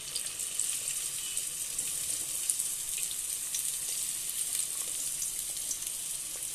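Chopped onions and green chillies sizzling steadily in hot oil in a pressure cooker, with a few light crackles.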